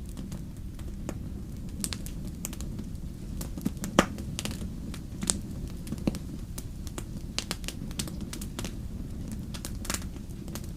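Fire crackling: irregular sharp pops and snaps over a steady low rumble, with one loud pop about four seconds in.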